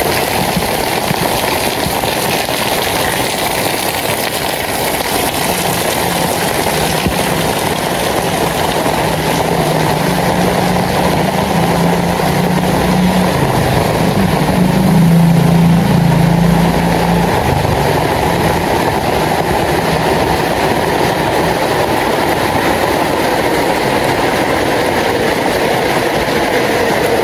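Steady rain falling, an even hiss of rain on the street. A low hum of a passing vehicle swells in the middle, loudest about halfway through, then fades.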